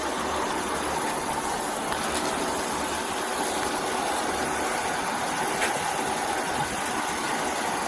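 Steady hum and hiss of an idling vehicle, with no distinct events.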